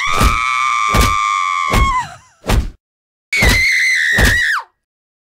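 A beating acted out: dull blows landing about once a second, four in the first three seconds, under a woman's long high scream, then a second scream; each scream falls in pitch as it ends.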